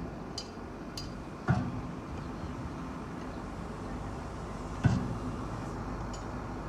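Heavy earthmoving machinery with its diesel engine running steadily, and two loud clanks about three and a half seconds apart, each with a short ring.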